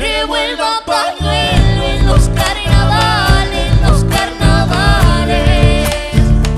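Argentine folk song played live: voices singing over acoustic guitars, with bass and hand percussion keeping a steady beat.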